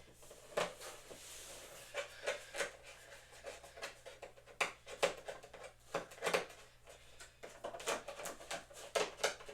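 Packaging being handled and opened by hand: a string of irregular clicks, taps and crackles.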